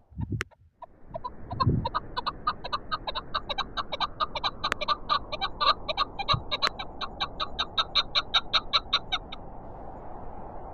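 Chukar partridge calling: a long run of rapid, evenly repeated notes, about four a second, that starts about a second in and stops shortly before the end. A steady wind blows underneath.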